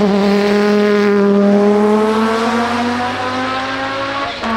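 The 1992 Audi S4 IMSA GTO race car's 2.2-litre turbocharged five-cylinder engine pulling hard under load. Its pitch climbs slowly, then drops briefly about four seconds in at a gear change.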